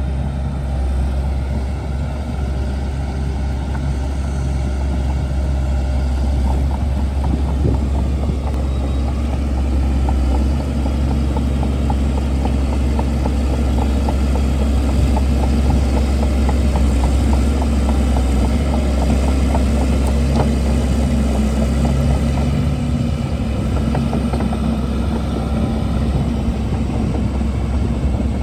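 Shantui DH17C2 bulldozer's diesel engine running steadily with a deep drone, while a dense, rapid crackle of rattles and snaps comes and goes through the middle of the stretch.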